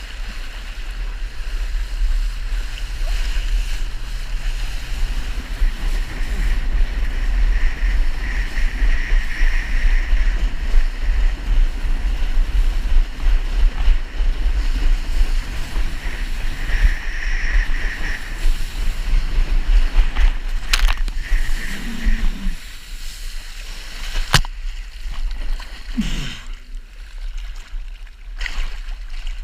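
Sea-Doo Wake 215 jet ski running across the water, a steady loud rush of engine and spray, with heavy wind rumble on the microphone. It drops off a little after about 22 seconds, with a few sharp knocks near the end.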